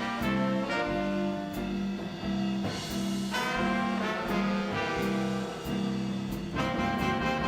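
Seven-piece swing band playing a brassy instrumental: trumpet, trombone and saxophones play the melody over upright bass, drums and guitar. Cymbal strokes keep a steady beat.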